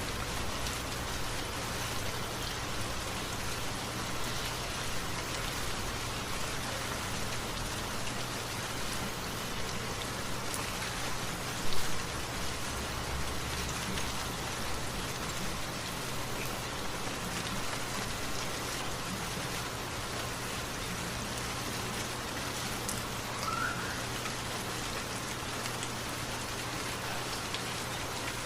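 Steady rain falling, an even hiss of many drops, with one brief louder thump about twelve seconds in.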